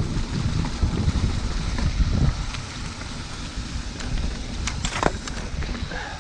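Wind buffeting the microphone and bicycle tyres rolling over a dirt trail, with a few sharp clicks and rattles from the bike about five seconds in. The rumble is louder for the first two seconds, then eases.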